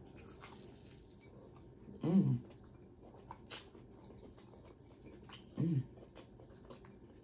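A person chewing fried chicken at close range: wet mouth noises and small smacking clicks, with two short hummed 'mmm' sounds, about two seconds in and again later, and one sharp click.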